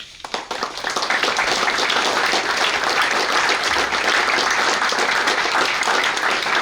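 Audience applauding, starting abruptly and building within the first second to steady, sustained clapping.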